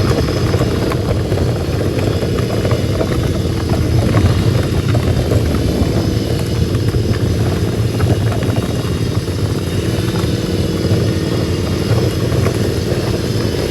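Riding lawnmower engine running steadily while it tows a small kids' tractor down a rocky lane, with a constant rattle and clatter from the towed tractor rolling over the rocks.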